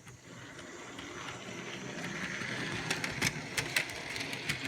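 Model railway locomotive running along the track, its motor and wheels growing steadily louder as it comes closer. About half a dozen sharp clicks come in the last two seconds.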